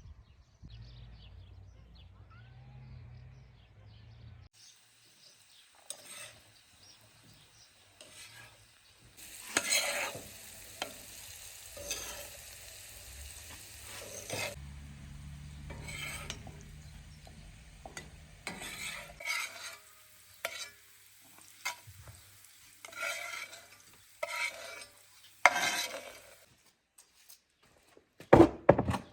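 Food being stirred and scraped in a frying pan, with sizzling and irregular clatters of the utensil against the pan.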